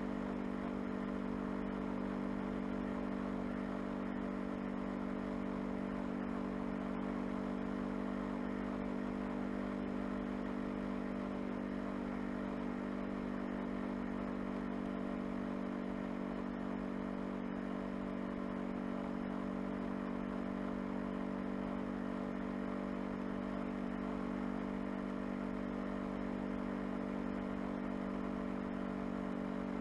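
A Honda CBR500R's parallel-twin engine running at steady revs, a constant hum with no changes in pitch.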